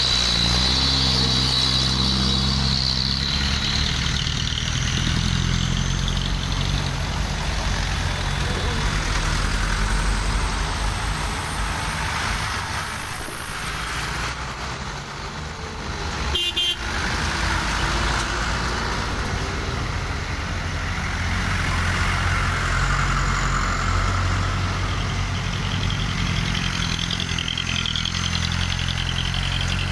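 Heavy trucks' engines running steadily in a line of traffic, with a brief drop in level and a sharp click a little past halfway.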